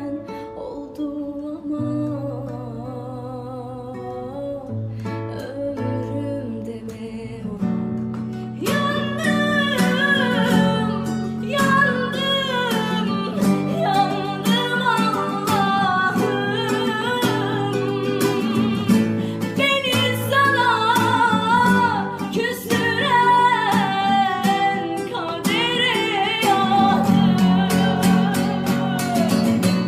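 A Turkish song: it opens with plucked guitar over steady bass notes, then a female voice comes in at about nine seconds and sings wavering, ornamented lines over the guitar.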